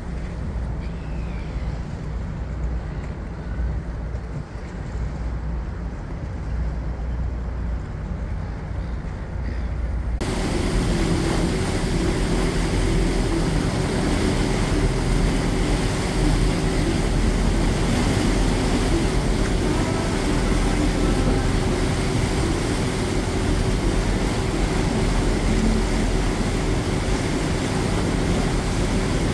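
Steady running noise of a moving passenger train. About ten seconds in it cuts abruptly to a louder, brighter stretch with a steady low tone.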